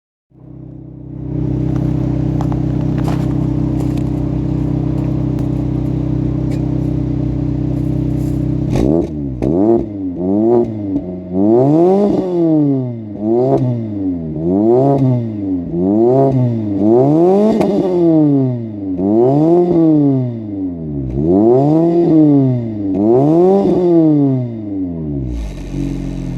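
Fiat Siena 1.4 8-valve four-cylinder running through a full 4-into-1 exhaust with no catalytic converter. It idles steadily at first, then is blipped about ten times in a row, the pitch rising and falling with each rev, and settles back to idle near the end.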